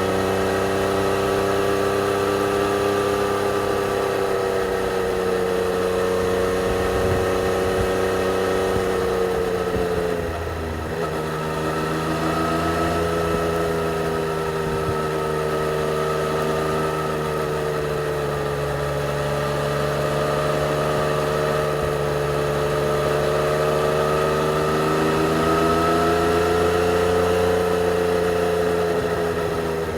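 2020 Yamaha XSR 900's 847 cc inline-three engine with stock exhaust, running at steady road revs under light throttle. About ten seconds in the sound dips briefly and the engine note settles lower, then climbs slowly again.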